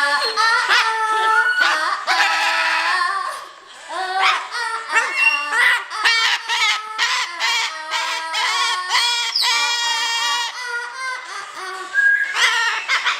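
Pet parrot singing: a fast run of pitched squawks and warbling calls that jump up and down in pitch, with a short break about three and a half seconds in.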